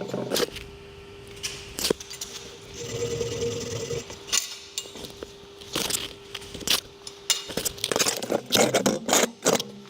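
Scattered metallic clinks, knocks and scrapes, thickest near the end, over a steady machine hum, as the steel work is handled with the MIG arc off between weld passes.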